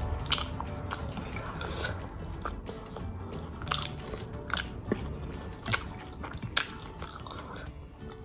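A person chewing a mouthful of chicken chow mein noodles, heard as short, sharp mouth sounds at irregular intervals.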